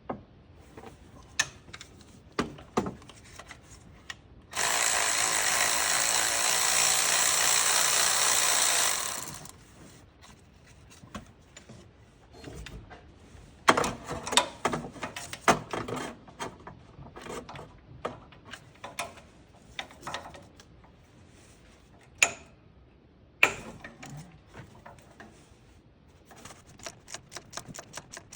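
A power tool runs steadily for about four and a half seconds, starting about five seconds in. Before and after it come scattered sharp clicks and metal knocks of hand-tool work, busiest in the second half.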